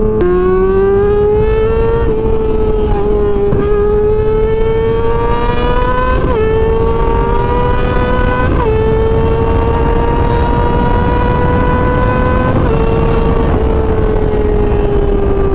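Sport-bike engine running hard at high revs under steady throttle. Its pitch climbs slowly and drops sharply a few times as the rider shifts gears, over a constant rush of wind.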